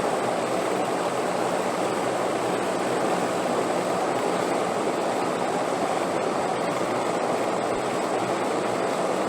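Steady, even wind noise with no gusts or breaks, plus a faint thin high tone above it.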